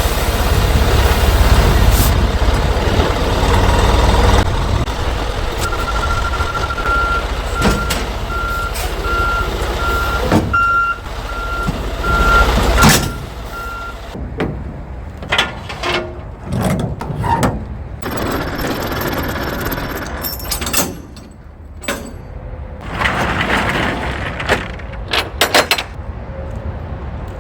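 Semi truck backing up with its diesel engine rumbling low and a reversing alarm beeping steadily for about eight seconds. Then a string of short hisses and knocks, typical of air brakes and hookup work between a tractor and trailer.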